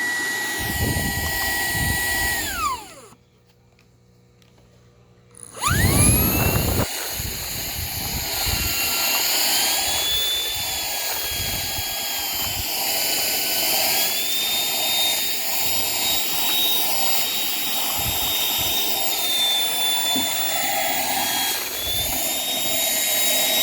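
Cordless stick vacuum motor with a high whine, switched off and winding down, then silent for about three seconds. It is switched back on, the whine rising as it spins up, and runs on with its pitch stepping up and later back down as the suction load changes.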